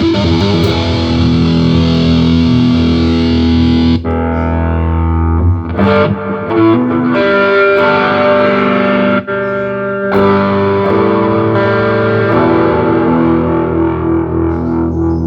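Electric guitar played through a Korg AX1000G multi-effects unit and Marshall amp, heavily distorted at first. About four seconds in the sound turns cleaner, with ringing single notes and a few short breaks between phrases.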